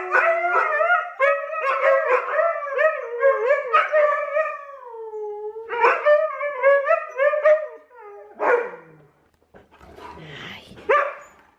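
Huskies howling and yodelling in long, wavering, pitched calls that bend up and down. One long stretch is followed by a second shorter one, then a few brief rougher sounds near the end.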